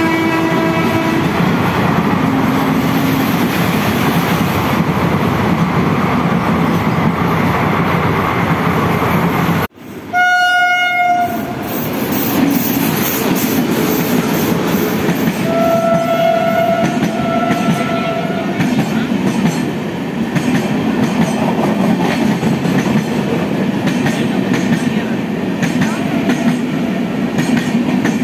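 A passenger train of LHB coaches running past close by: a steady loud rumble and rattle of wheels over the rail joints. After a brief break about ten seconds in there is a short train horn blast, and two more horn blasts follow a few seconds later.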